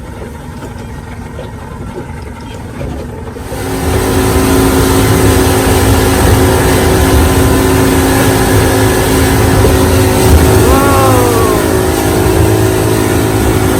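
Motorboat engine running low, then opening up about three and a half seconds in as the boat gets under way; from then on the engine runs steady and loud under a rush of wind and water.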